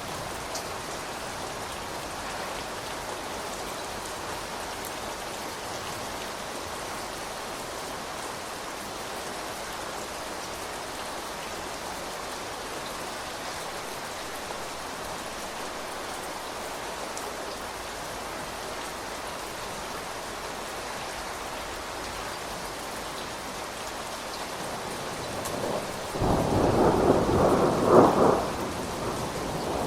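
Steady rain falling. Near the end a loud rumble of thunder rises, peaks and fades over about three seconds.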